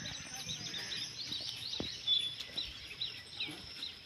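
Small birds calling outdoors: a steady series of short high chirps, about two a second, over a faint background hiss.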